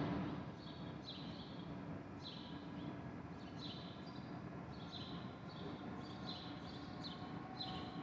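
Birds chirping in trees: short, high chirps that drop in pitch, repeated about once or twice a second, over a steady low background hum.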